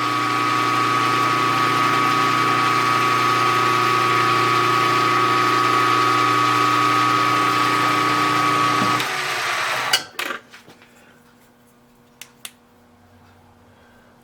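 Milling machine running with a boring head taking a very light pass in a bearing bore, a steady mechanical run with a whine. It shuts down about nine seconds in, followed by a knock and a few light clicks.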